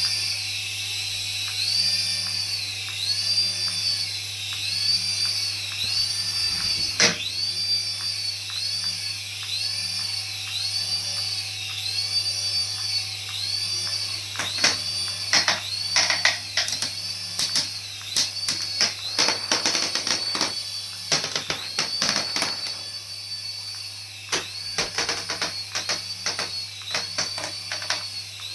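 A battery-powered toy's electronic sound effect: a high whine that swells and falls in a steady loop, a little faster than once a second, over a constant low hum. Clicks and knocks come in through the second half.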